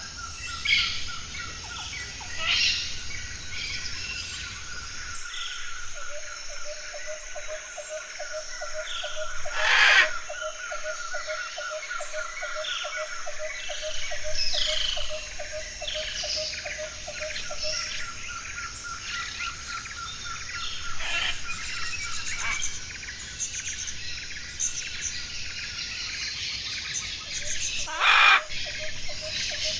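Several wild forest birds calling and chirping over a steady, fast-pulsing trill. Two loud harsh calls stand out, about a third of the way through and near the end.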